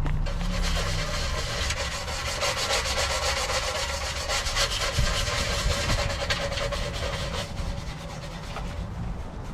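Rapid back-and-forth hand scrubbing on the engine bay's frame rail during degreasing. The strokes stop about seven and a half seconds in, leaving a steady low rumble.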